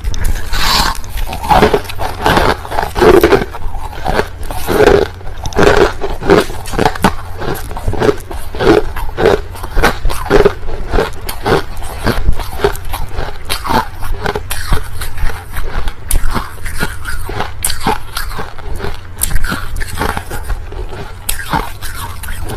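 Crushed ice being bitten and chewed close to the microphone: a rapid, continuous run of crunches, densest in the first half.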